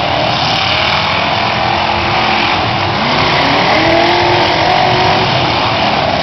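Several demolition derby cars' engines revving together, a loud continuous din with pitches rising and falling as the cars are driven hard.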